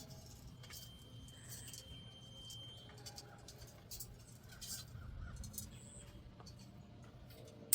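Faint scattered clicks and taps from macaws at snack time, with faint caw-like parrot calls and one sharp click near the end.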